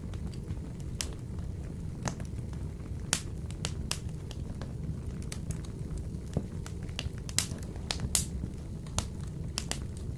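Wood fire burning in a wood-burning stove: a steady low rumble of flame with frequent irregular sharp crackles and pops, a few louder snaps about three, seven and eight seconds in.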